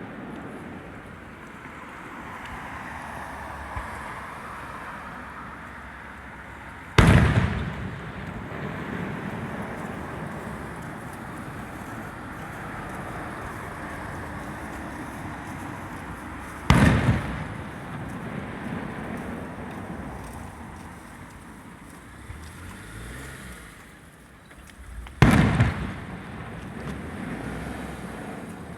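Aerial firework shells bursting: three loud booms roughly nine to ten seconds apart, each trailing off in a short rumbling echo, over a steady outdoor background hiss.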